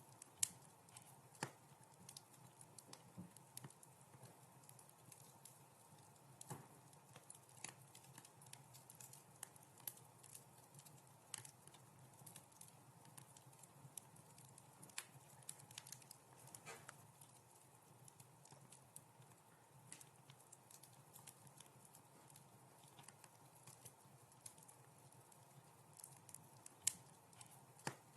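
Wood fire crackling in a fireplace: irregular sharp pops and snaps over a faint low hiss, with a louder pop just after the start and another near the end.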